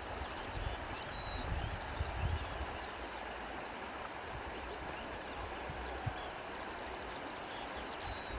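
Outdoor ambience: a steady rushing noise with low rumbling gusts, strongest in the first few seconds, and many short, high bird chirps throughout.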